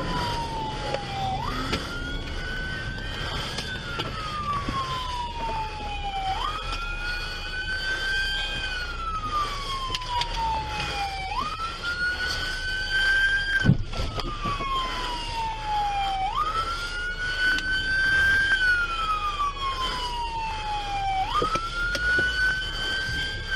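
Police car siren in wail mode: a tone that sweeps up quickly and then falls slowly, about once every five seconds, over the steady rumble of a vehicle. A single sharp knock about halfway through.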